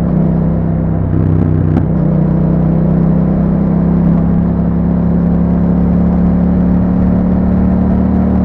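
A 2021 Yamaha MT-07's 689 cc parallel-twin engine running through an Akrapovic exhaust fitted with a YAHOM dB killer, under way on the road. The note changes near the start, then holds nearly steady, creeping slightly up in pitch.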